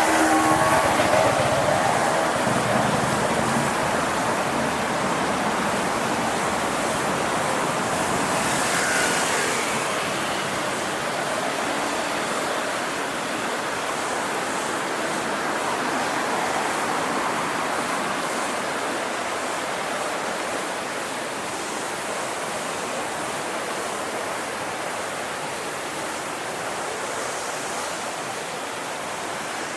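River water flowing steadily as a continuous rushing hiss that slowly grows fainter. A brief hum is heard in the first couple of seconds.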